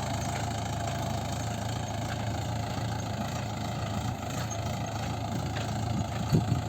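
Tractor engine running steadily with an even low hum, with a brief louder sound near the end.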